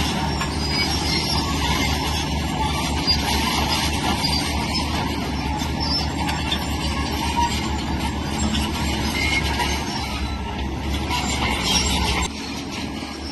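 Heavy tracked earthmoving machine working, its steel crawler tracks clanking and squealing over a running diesel engine. The noise is steady and loud, then drops off about twelve seconds in.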